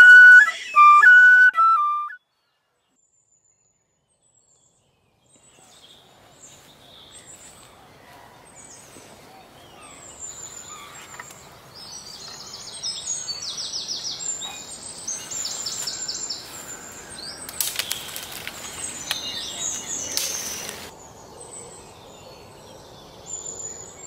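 A short flute-like melody plays for about two seconds and stops. After a few seconds of silence, outdoor ambience fades in: small birds chirp and trill over a faint steady hiss, with two brief rushes of noise near the middle.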